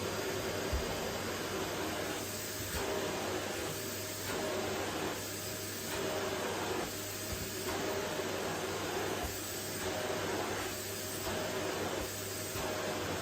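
Vacuum cleaner running steadily, a constant motor hum under its airflow hiss, the hiss dipping and swelling every second or two as the head is worked back and forth over a wooden floor.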